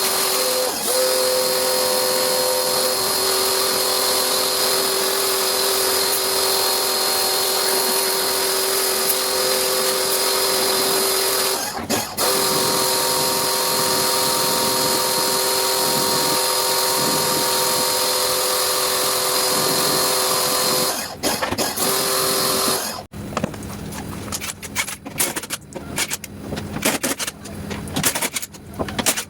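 An electric power tool's motor runs steadily with a high whine, cutting out briefly twice before stopping about 23 seconds in. After that come irregular light metallic clicks and clatter.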